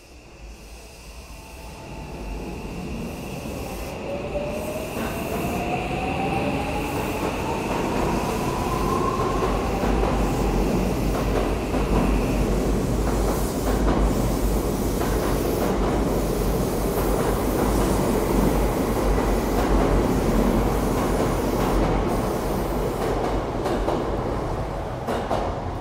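Odakyu 1000-series electric train pulling away from the platform. Its motor whine rises steadily in pitch over the first ten seconds, with a steady high tone alongside. The run and wheel noise then grows into a loud, sustained rumble as the cars pass, easing slightly near the end.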